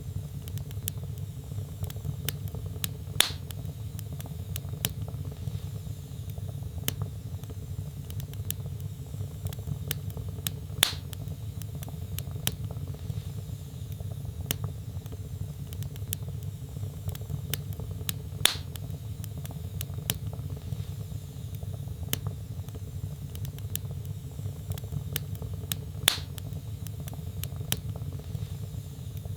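Wood fire burning in a fireplace: a steady low rumble of flame with small crackles throughout and four louder pops from the burning logs, evenly spaced about seven and a half seconds apart.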